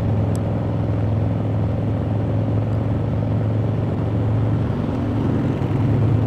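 Harley-Davidson motorcycle's V-twin engine running at steady highway cruising speed, a low drone that grows a little louder near the end.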